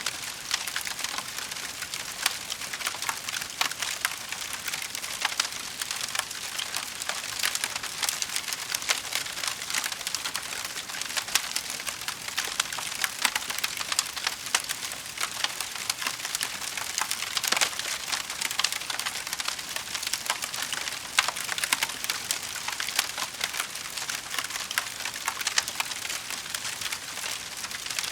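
Wood fire crackling in a fireplace: a dense, steady patter of small pops and snaps, with sharper cracks here and there.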